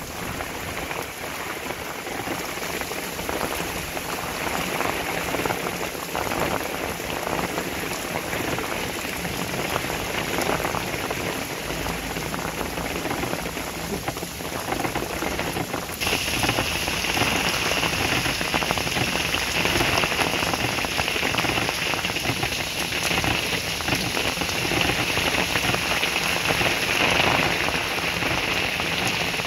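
Heavy rain falling steadily on a wet street: an even hiss of drops that gets louder and brighter about halfway through.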